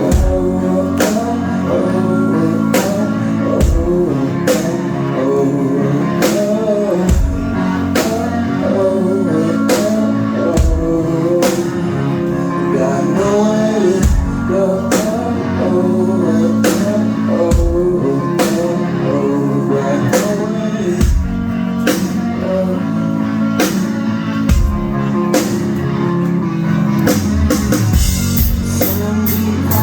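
A live rock band playing: sung vocals over guitar and drum kit, with a steady beat. The drumming gets busier near the end.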